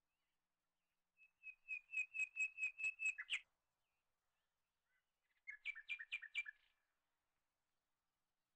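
A bird singing outdoors: a quick run of about ten clear, repeated high notes ending in a short downward slur, then a shorter run of about five notes a couple of seconds later.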